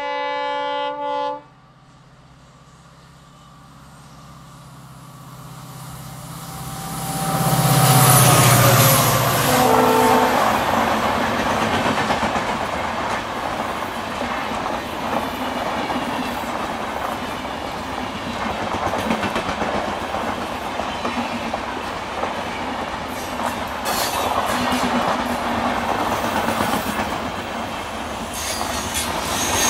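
Indian Railways locomotive horn sounding one blast of about a second and a half, then the train approaching at speed and passing close by, with a short second horn note about ten seconds in. The passing coaches keep up a steady rumble and clatter of wheels over rail joints.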